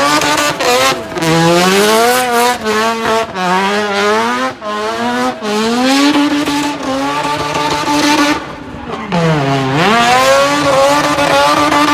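A drift car's engine revving up and down hard, over the steady squeal of spinning tyres. The revs drop sharply about nine and a half seconds in, then climb again.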